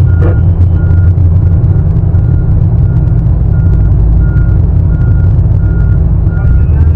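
Heavy diesel mining equipment running with a loud, steady low drone, while a back-up alarm beeps evenly, about three beeps every two seconds.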